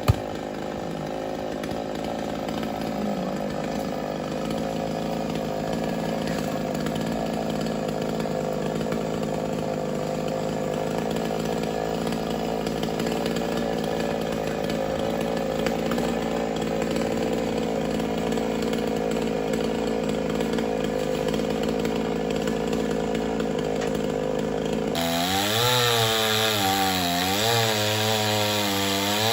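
Chainsaw engine running at a steady speed, then about 25 seconds in abruptly changing to a pitch that rises and falls, as when the saw is worked under load through wood.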